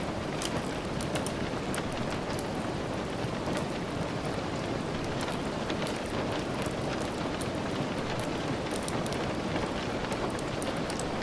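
Steady rain, an even hiss, mixed with the crackle of a wood fire: many small sharp ticks scattered throughout.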